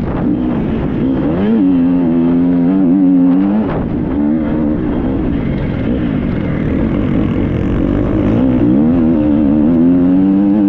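Triumph 250 motocross bike's single-cylinder four-stroke engine under way off-road, revs rising and falling as the rider works the throttle, with a climb in pitch a couple of seconds in and again near the end.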